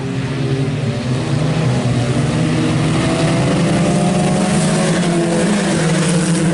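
A pack of IMCA Sport Compact race cars' four-cylinder engines running at racing speed, several engines at once, growing louder over the first three seconds as the cars come past.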